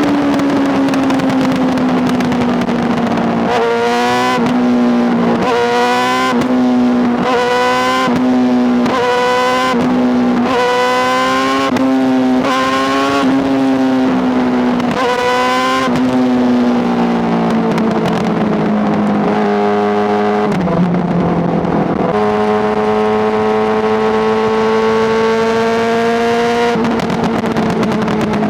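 Honda CBR600RR inline-four engine revving hard, its pitch climbing and dropping back about nine times in quick succession. It then settles into a steady, even run, with a brief dip about two-thirds of the way in.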